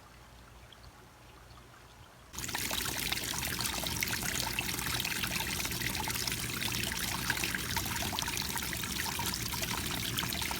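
Water trickling and splashing steadily down a backyard pond's stone waterfall. It starts abruptly about two seconds in, after a quiet start.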